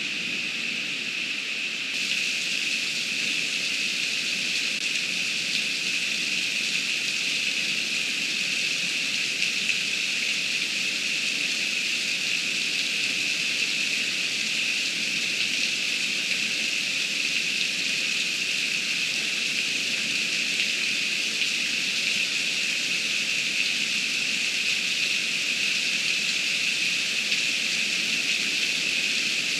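Heavy rain pouring down in a steady, dense rush, growing slightly louder about two seconds in.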